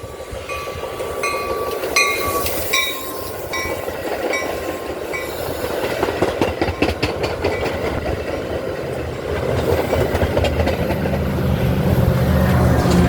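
A bell dings about every three-quarters of a second as a train approaches. From about halfway in, the train's wheels clatter over the rail joints in quick clicks, and a low engine rumble builds toward the end.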